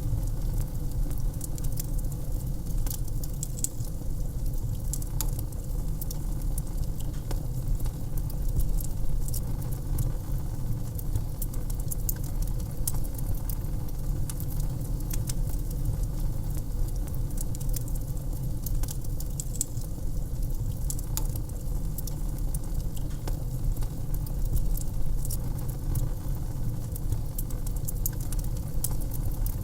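Wood fire crackling in a fireplace: many irregular sharp snaps and pops over a steady low rumble of the burning fire.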